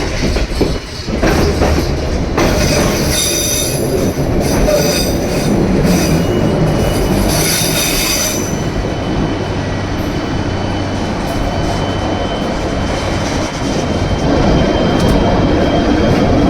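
Narrow-gauge White Pass & Yukon Route train rolling on the rails with a steady rumble. High wheel squeal breaks in twice in the first half.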